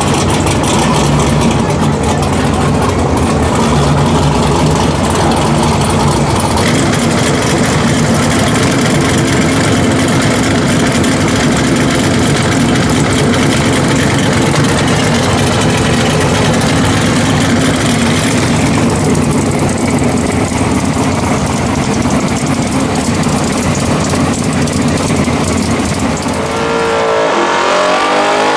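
Twin-turbo LS V8 of a Mk1 VW Passat drag car running steadily at idle, loud. Near the end it revs hard up and down in a burnout.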